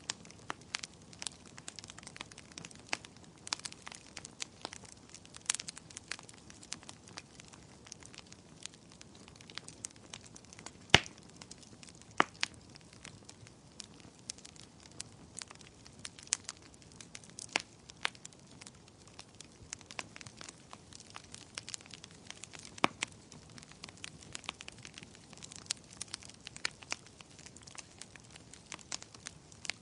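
Wood fire burning in a fireplace, crackling steadily with irregular sharp pops over a soft low hiss; the loudest pop comes about a third of the way through.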